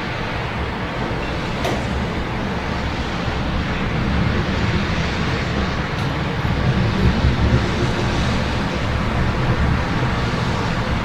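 Steady city ambience in the rain: a continuous low rumble of road traffic under an even hiss, with a couple of faint sharp ticks.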